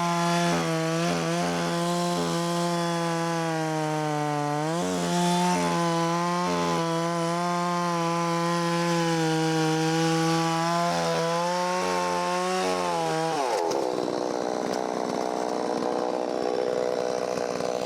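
Holzfforma 660 clone two-stroke chainsaw running fast at a steady pitch, its carburetor freshly cleaned. The pitch rises briefly about five seconds in. About 13 seconds in the steady tone breaks into a rougher, noisier sound.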